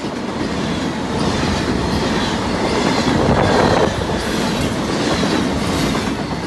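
Train passing close by, its wheels clattering on the rails; the sound swells to a peak near the middle and eases off toward the end.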